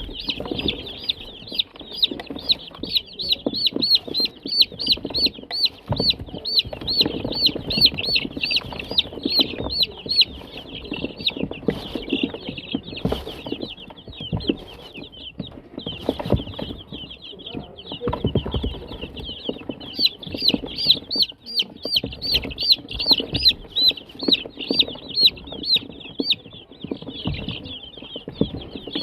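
Young chicks peeping steadily, a rapid string of short high-pitched peeps with a thinner patch in the middle, over close handling knocks and rustles.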